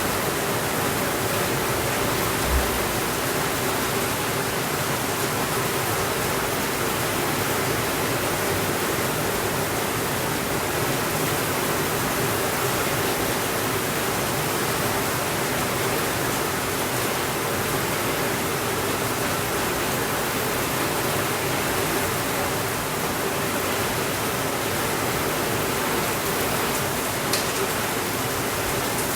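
Steady rainfall, an even unbroken hiss. There is a single soft low thump about two and a half seconds in and one sharp tick near the end.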